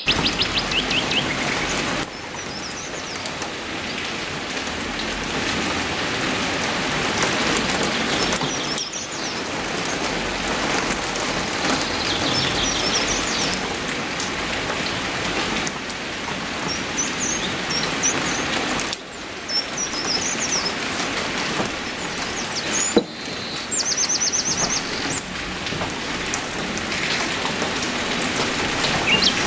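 Steady rain falling, with birds calling now and then in short, rapid trills of repeated high notes. The rain's level jumps abruptly a few times, and a single sharp click sounds about three-quarters of the way through.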